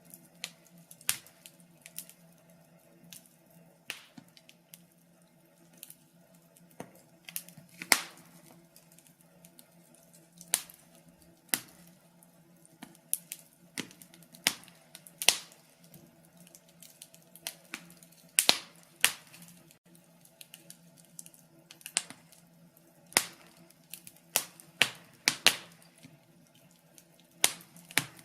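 Fire crackling: irregular sharp pops and snaps, about one louder crack a second with smaller ticks between them.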